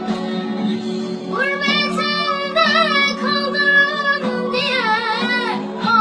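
Female voice singing a melody with strong vibrato and held, wavering notes over steady instrumental accompaniment; the voice comes in about a second and a half in.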